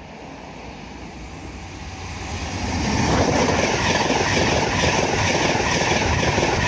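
Class 66 diesel locomotive 66733 dragging two passenger coaches: heard approaching and growing louder, then passing close by from about three seconds in with loud, steady wheel-on-rail running noise.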